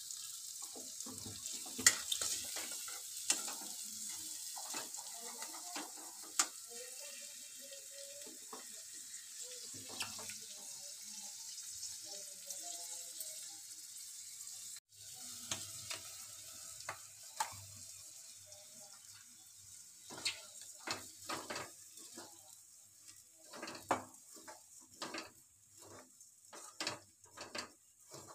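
Green peas frying and sizzling in a steel kadhai, with a metal spoon clinking and scraping against the pan as they are stirred. In the second half the sizzle is fainter and the spoon scrapes come thick and fast as flattened rice (chura) is stirred through the peas.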